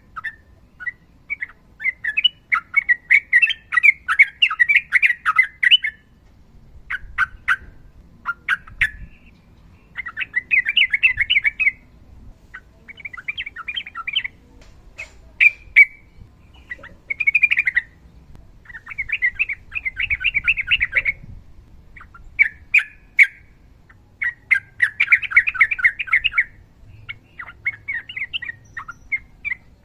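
Yellow-vented bulbul singing in repeated bursts of rapid, chattering notes, each run lasting a second or two with short pauses between.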